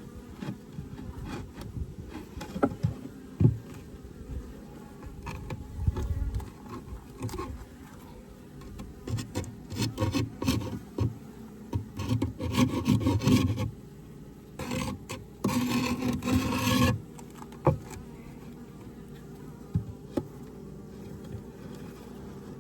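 Honeybees buzzing in an open Layens hive, with wooden frames and a divider board knocking and scraping against the hive body. The scraping is loudest in two stretches, about twelve and sixteen seconds in.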